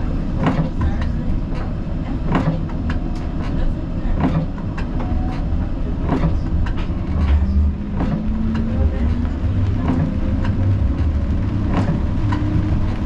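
Siemens Combino tram running along the track, heard from the driver's cab: a steady low rumble with irregular clicks and knocks from the wheels over the rails, and a low motor hum that shifts in pitch now and then.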